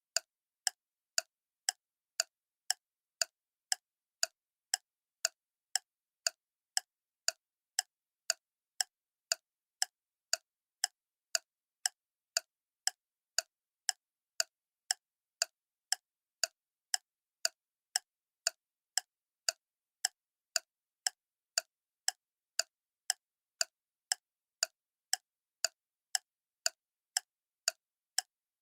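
Mechanical clock ticking steadily, about two sharp ticks a second with silence between them.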